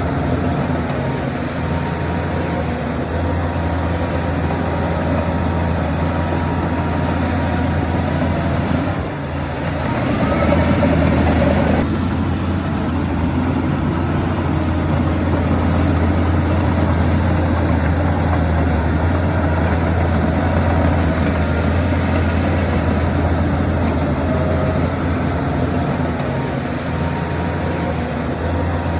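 Heavy diesel earthmoving machinery engine running steadily. About nine seconds in it dips briefly, then runs louder for a couple of seconds before dropping back abruptly.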